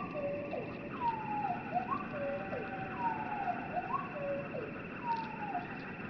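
Bird song played back in slow motion, so it comes out low and drawn out. A phrase of long falling whistles, each followed by a short rising note, repeats about once a second.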